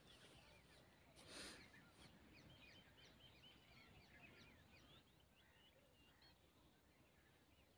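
Near silence, with faint birds chirping in the background and a brief soft rush of noise about a second and a half in.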